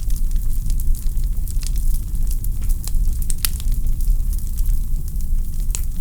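Wood fire burning in a fireplace: a steady low rumble of flames with irregular crackles and pops from the logs.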